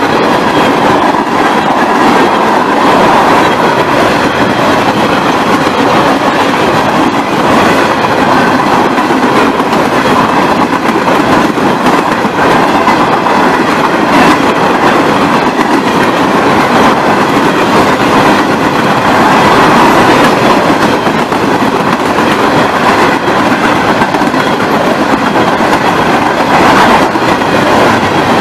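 Empty Norfolk Southern articulated well cars of a freight train rolling past: a loud, continuous rumble and rattle of steel wheels on the rails, with a steady high ringing tone running through it.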